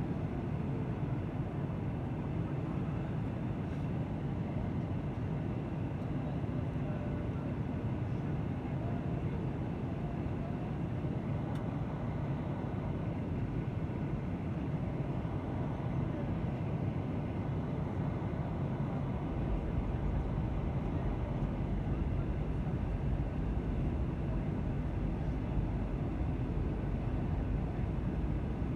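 Steady airliner cabin noise, the drone of the engines and rushing air, with a deeper rumble coming in about two-thirds of the way through.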